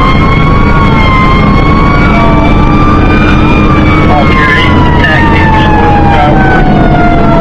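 Fire engine siren wailing in long, slow sweeps, its pitch rising and then falling gradually over several seconds, over the steady rumble of the truck's engine.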